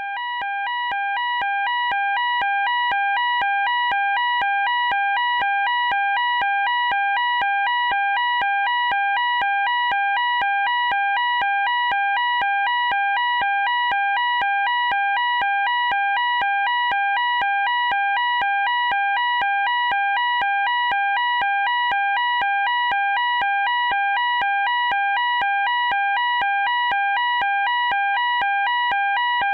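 Electronic emergency alarm sounding a two-tone warble, flipping back and forth between two high pitches several times a second. It swells up over the first couple of seconds, then holds steady and loud.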